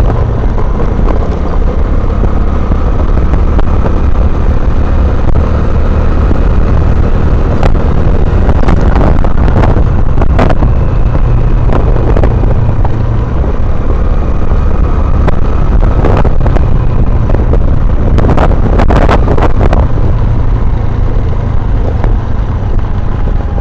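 Honda Navi mini motorbike's small single-cylinder engine running steadily under way, with wind rumbling on the microphone. A few sharp clicks or knocks come about a third of the way in and again near three-quarters of the way through.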